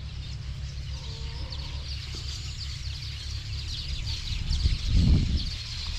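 A dense chorus of many birds chirping and chattering continuously, with a steady low rumble of wind or handling underneath and a louder low thump or swell about five seconds in.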